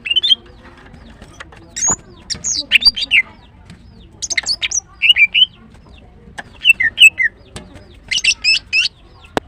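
Female greater green leafbird calling: short phrases of quick, high, squeaky chirps, about six phrases with gaps of a second or so between them.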